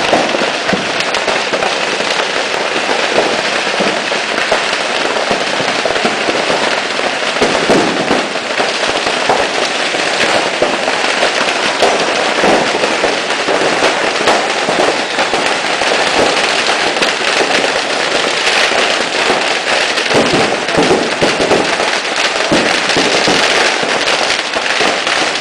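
A burning shop's stock of fireworks and firecrackers going off nonstop: a dense, continuous crackle of rapid pops and bangs.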